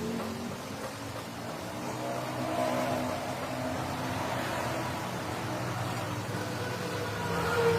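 A dump truck's diesel engine running steadily, with a low, even hum.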